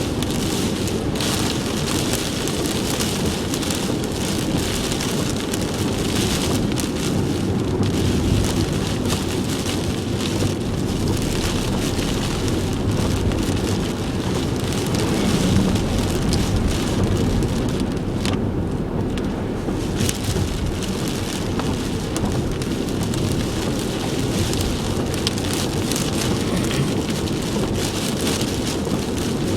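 Heavy typhoon rain beating on a moving car, over a steady low rumble of road and engine noise. The rain hiss eases briefly about two-thirds of the way through.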